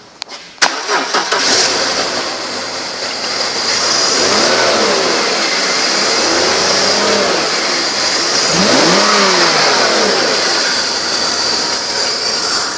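2003 BMW 325xi's 2.5-litre inline-six engine cranked and started, catching about a second in, then running and revved three times, pitch rising and falling with each blip.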